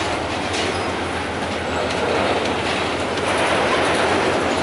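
Freight train of covered hopper wagons rolling past: a steady rumble of steel wheels on rail, with a few clicks as the wheels run over the rail joints.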